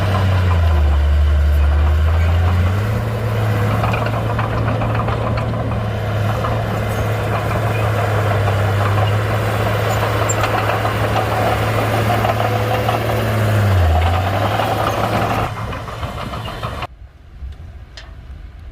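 Komatsu D31-P crawler bulldozer's diesel engine working, with a dense clatter over its steady note. The engine note rises a couple of seconds in, holds steady, dips briefly later on, and the sound drops off sharply near the end.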